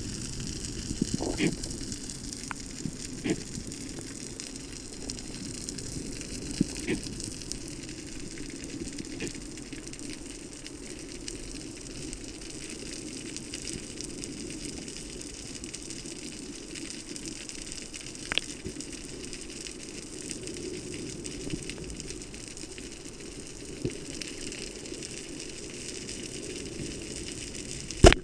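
Underwater ambience from a camera submerged on a breath-hold spearfishing dive: a steady hiss of water noise with scattered sharp clicks, and one loud click right at the end.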